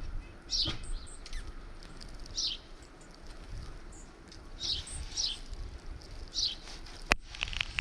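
Small songbirds chirping, short high calls every second or two, over a low rumble; a sharp click sounds about seven seconds in.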